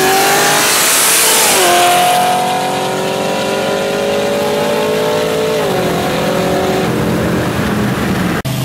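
Supercharged or twin-turbo Pontiac G8 V8s accelerating hard at full throttle. The engine note climbs steadily and drops sharply at two upshifts, about two seconds in and again a little before six seconds. The sound cuts off abruptly near the end.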